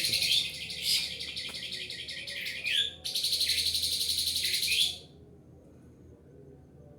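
A bird calling with a loud, very high, rapidly pulsed buzzy trill in two long bursts, each about two to four seconds long with a short break between, and each ending in a few quick rising notes. The call stops about five seconds in.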